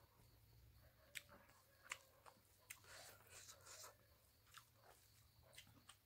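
Faint close-up eating sounds: a mouthful of pork and rice being chewed, with scattered wet clicks and smacks, and a soft rustle of fingers mixing rice in gravy on the plate.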